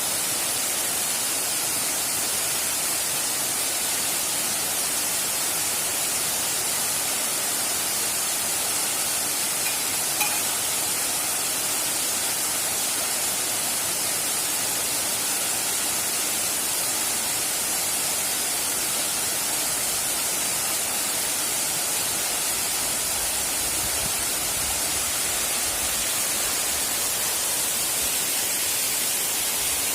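Waterfall: the steady, even rush of falling water, brightest in the high end. A small tap stands out about ten seconds in.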